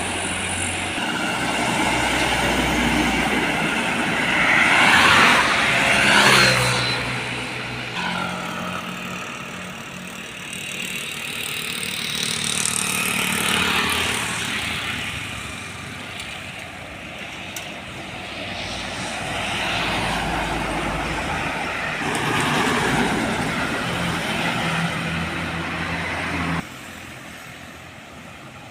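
Heavy diesel trucks driving past one after another, each engine growing louder and fading as it passes. The sound drops off suddenly near the end.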